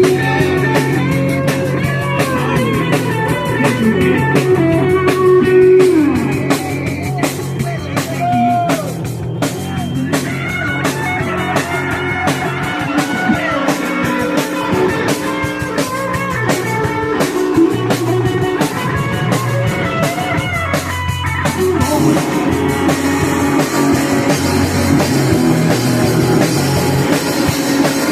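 Punk rock band playing live, with a full drum kit and electric guitars; the playing thins briefly about three quarters of the way through, then comes back in full.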